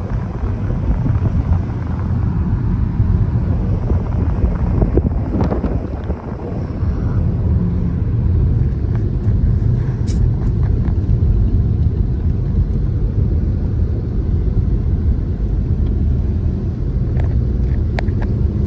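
Car driving on the road, heard from inside the cabin: a steady, low rumble of engine and road noise.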